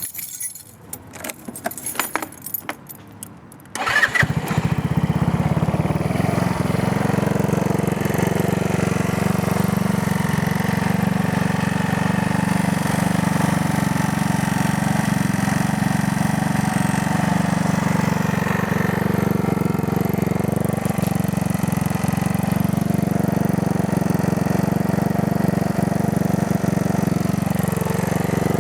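A few clicks and rattles, then about four seconds in a 150cc GY6 four-stroke single-cylinder scooter engine starts and runs steadily through a newly fitted aftermarket performance exhaust, on its first start with that exhaust.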